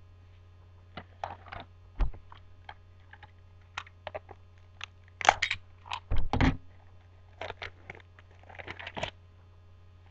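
Baseball trading cards being handled and flipped through: irregular clicks, slides and rustles, with a heavier knock about two seconds in and a couple more just past the middle. A steady low hum runs underneath.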